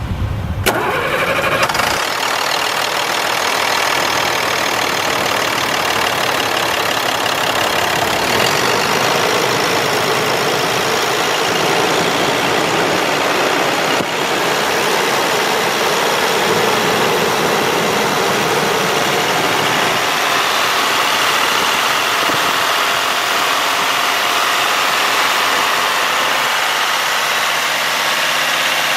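International DT466 inline-six diesel starting up about a second in, then running steadily at idle.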